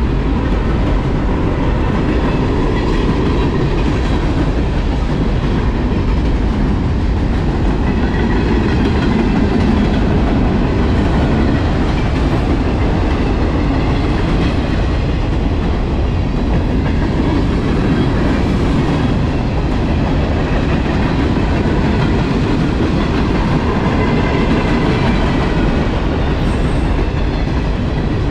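A train rolling past at close range: a loud, steady rumble of wheels on rail.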